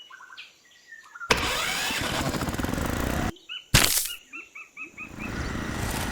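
A small DIY rice mill machine's motor running with a dense, rattling noise that starts abruptly about a second in, cuts off sharply midway and starts again near the end. Bird chirps are heard in the quiet gaps, with a quick series of chirps just before the machine starts again.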